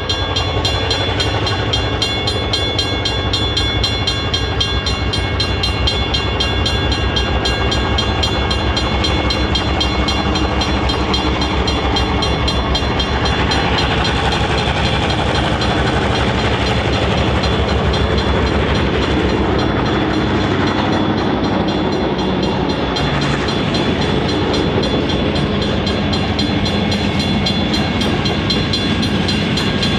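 A freight train hauled by three classic diesel locomotives, a Goodwin/Alco 830 class, a Clyde/GM 442 class and a Goodwin/Alco 48 class, approaching with a steady, rapidly pulsing engine throb. The locomotives pass close by about halfway through, and then the loaded hopper wagons roll past with a continuous wheel-on-rail rumble.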